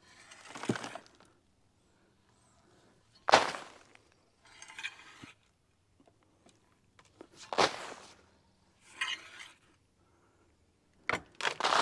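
Bark mulch being tossed down onto plastic sheeting: separate rustling, rattling dumps of bark chips, each starting sharply, about every two to four seconds.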